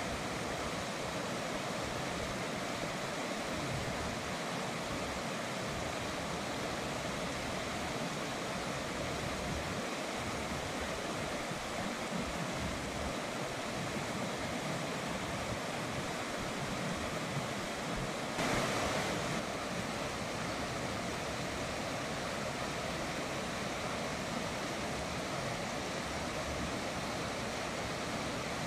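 River water rushing steadily, a constant even hiss, with a brief louder surge about two-thirds of the way through.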